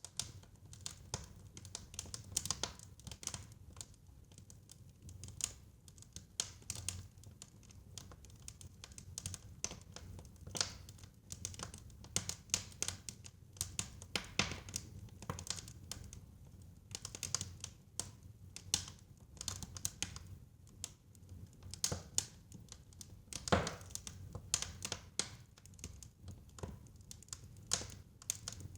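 Fire crackling in a fireplace: irregular snaps and pops over a low steady rumble of flames, with one louder pop about three-quarters of the way through.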